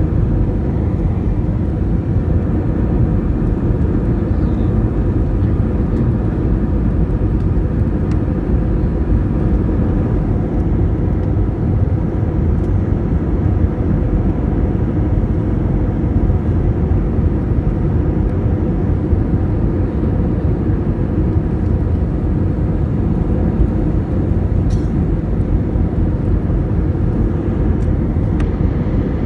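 Steady low cabin noise of a jet airliner in flight, the engines and rushing air heard from inside the cabin.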